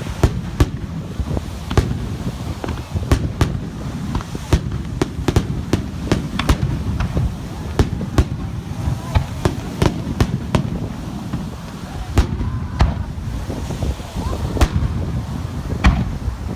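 Aerial fireworks bursting in quick, irregular succession: many sharp bangs over a continuous low rumble.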